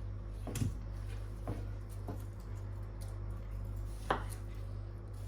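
A few faint, light clicks and taps from kitchen handling, over a steady low hum.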